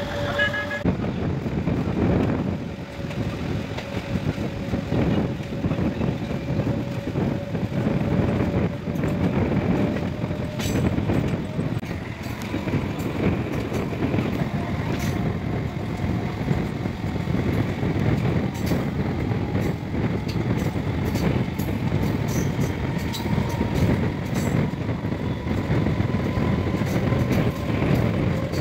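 MEMU electric train running along the track, heard from an open coach door: a steady rumble of wheels on rails mixed with rushing air, with occasional sharp clicks. A faint motor whine rises slowly in pitch as the train gathers speed.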